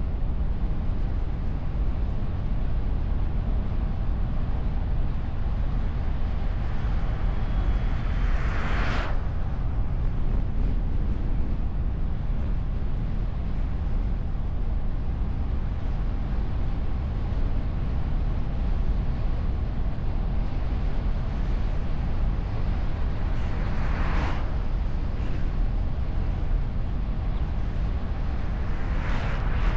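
Steady wind and road rumble of a moving car, picked up by a bonnet-mounted camera behind a wind muff. Three brief whooshes swell and fade as other vehicles pass: about nine seconds in, around twenty-four seconds, and near the end.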